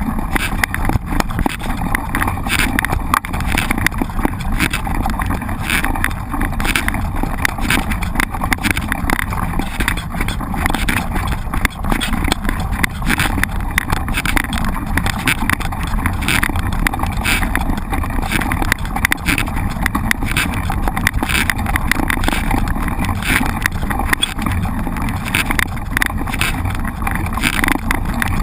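Mountain bike being ridden over rough ground: a steady rush of wind on the microphone with constant rattling and knocking from the bike.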